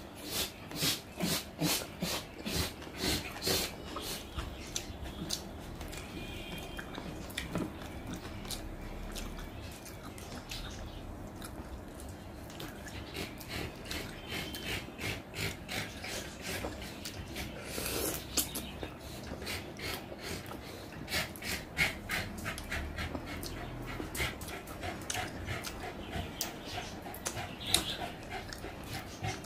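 Close-up mouth sounds of eating rice and chicken curry by hand: wet chewing and lip smacking in quick runs, with fingers squishing the rice. A dog whines faintly a few times.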